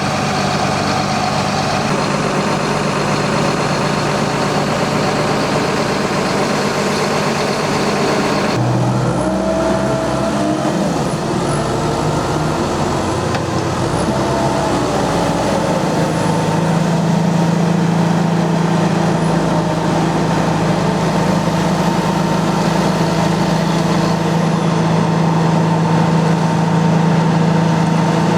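Heavy diesel-driven wood chipper running steadily at a loud level. About a third of the way through, the sound changes abruptly, and for a few seconds the pitch wavers up and down. From about halfway on, the engine settles into a steady, slightly louder drone.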